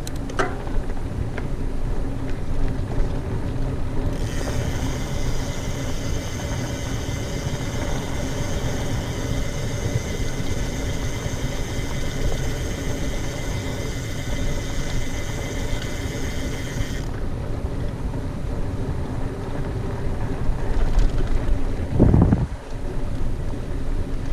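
Mountain bike rolling fast over a dirt trail: steady rumble of the tyres with wind noise on the microphone. A high steady buzz joins a few seconds in and stops about thirteen seconds later, and there is a heavy knock near the end.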